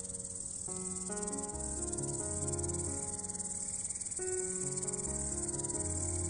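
Steady, high-pitched, fast-pulsing chirring of insects, like a cricket chorus, over soft background music with held low notes.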